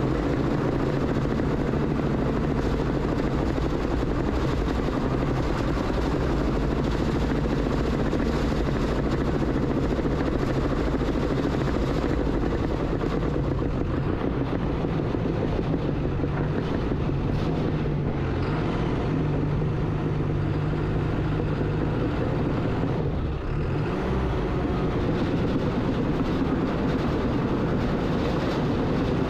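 Engine of a heavy earthmoving machine running steadily under work, its pitch shifting a little up and down, with a brief dip in loudness a little over three-quarters of the way through.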